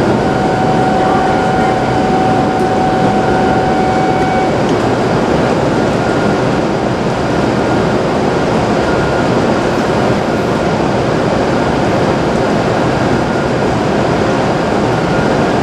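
E7/W7-series Hokuriku Shinkansen train moving out of the platform after its doors close, a loud, steady rumble. A steady tone sounds over it for the first four or five seconds.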